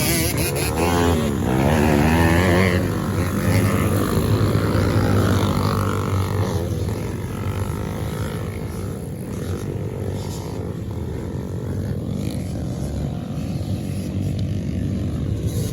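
A pack of 110cc youth racing quads' small engines revving, their pitch rising and falling as they accelerate through gear changes. Loudest in the first few seconds, then settling into a fainter, steadier drone as the pack moves away.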